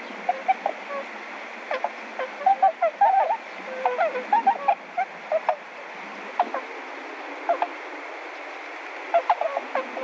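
Wild bird calls: short chirps, many in quick runs around the middle and again near the end, over a steady background hiss.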